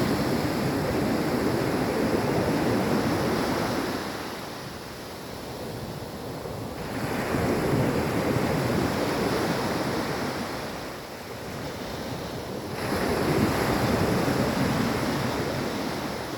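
Soft ocean waves breaking and washing up on a beach, swelling and fading in three surges about six seconds apart.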